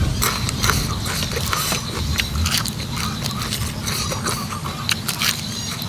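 Close-up eating sounds: a person chewing, with a dense run of wet clicks and smacks from the mouth.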